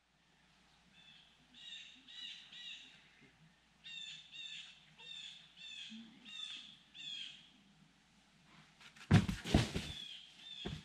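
A bird calling repeatedly in the woods, three calls and then a run of six, followed about nine seconds in by a cluster of loud knocks and one more knock near the end.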